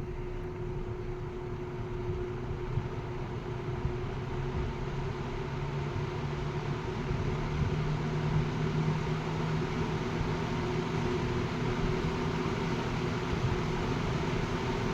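Mid-1960s 20-inch Dominion all-metal box fan with a Fasco motor running on low speed. Its steel blades whoosh over a steady motor hum, growing gradually louder as the fan comes up to speed.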